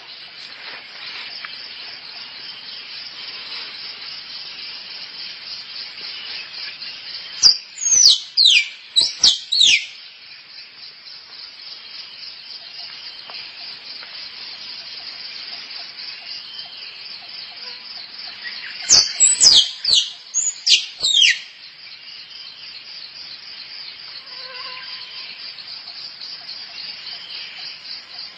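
Squirrel calling for a mate: two bursts of four or five sharp, falling squeaky chirps, about eight seconds in and again about nineteen seconds in. Under them runs a steady, rapidly pulsing high-pitched trill.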